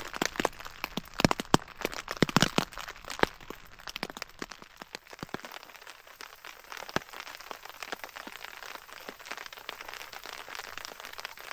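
Raindrops pattering irregularly on a nylon rain tarp stretched over a hammock: sharp single taps, thickest and loudest in the first few seconds, then sparser over a faint hiss of light rain.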